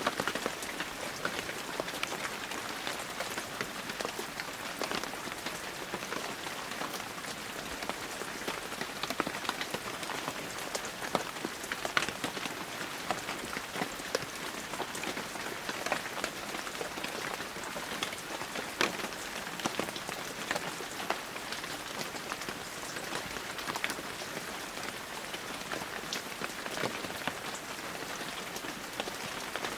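Heavy rain falling steadily, an even hiss with many individual drops pattering and ticking on surfaces.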